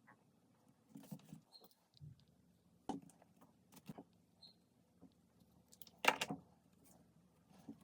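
Small wooden puzzle parts being handled: scattered light clicks and taps, with one louder clatter about six seconds in.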